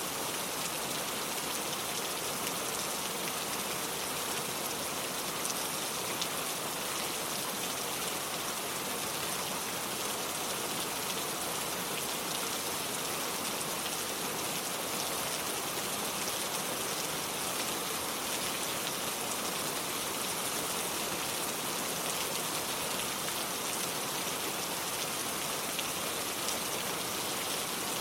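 Steady, gentle rain falling, an even hiss with fine scattered patter of drops and no change in strength.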